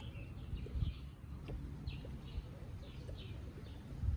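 A small bird chirping, with short falling notes repeated every half second or so, over a faint low rumble.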